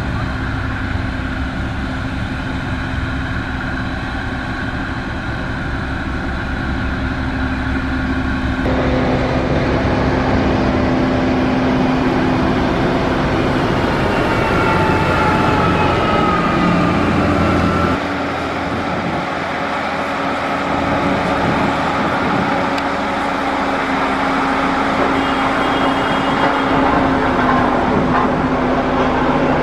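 Heavy construction machinery diesel engines running steadily. The sound changes abruptly twice, about a third and about two thirds of the way through.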